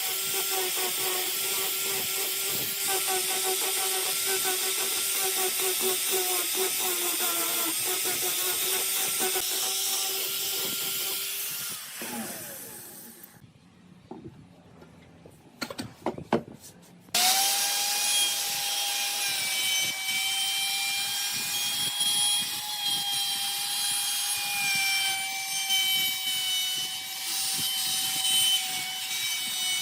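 Power tools working wood. One tool runs steadily with a whine for about twelve seconds and winds down, a few clicks follow, then a second tool starts suddenly just past the middle and runs with a higher whine.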